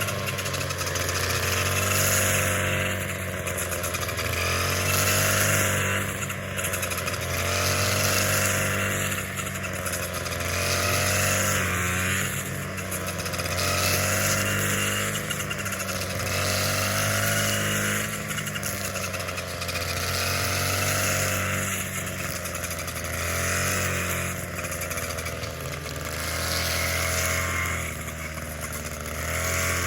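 A small petrol engine running steadily, its pitch and load swelling and easing in a regular rhythm about every two seconds.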